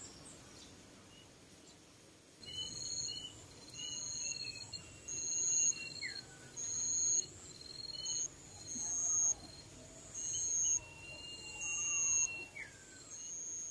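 Birds calling: clear, high whistled notes repeating about once a second, starting a couple of seconds in. Twice a longer, lower note ends in a downward glide.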